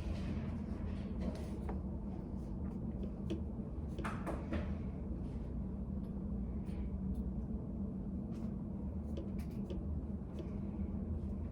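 Study-room ambience: a steady low hum with scattered light clicks and taps, and a short cluster of louder clicks about four seconds in.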